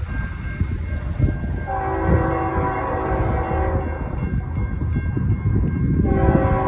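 Freight locomotive air horn sounding its crossing signal: a long multi-note blast a couple of seconds in, then another starting near the end, over the low rumble of the fast-moving train.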